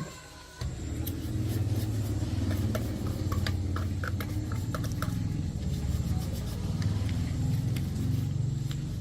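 A motor-driven machine or power tool running steadily. It starts abruptly under a second in, with scattered light clicks and taps over its low hum.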